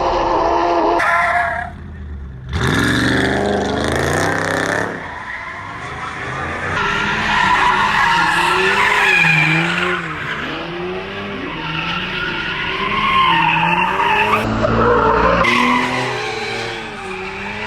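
Cars doing burnouts or donuts: tires squealing in long wavering screeches over engines revving, heard in several short cut-together clips. An engine revs up sharply about two and a half seconds in.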